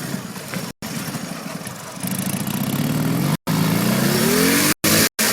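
Dnepr 11 sidecar motorcycle's flat-twin engine running, then revving up from about two seconds in, its pitch climbing steadily and getting louder. The sound cuts out abruptly for a moment several times.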